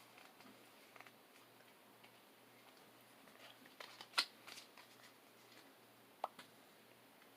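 Quiet handling of Pokémon trading cards and their pack: faint scattered clicks and rustles, with a sharper snap a little past four seconds and another just after six seconds.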